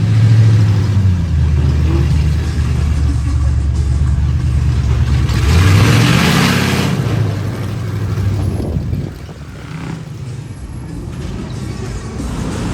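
Truck engine running under load, rising in pitch about five and a half seconds in with a loud rush of hiss, then dropping back to a lower, quieter drone about nine seconds in.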